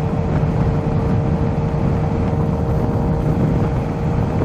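Kawasaki Z H2's supercharged inline-four engine running steadily under the rider, a constant low rumble with a thin steady whine over it.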